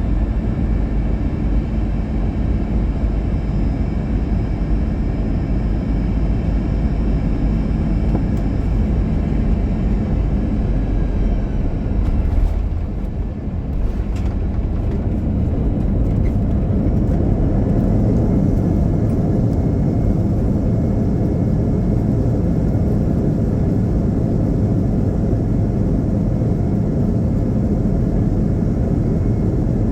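Airbus A321-200 cabin noise during landing: engine and airflow noise with several steady tones. About twelve seconds in there is a short jolt with a few sharp clicks and the noise dips, then it builds again and holds steady.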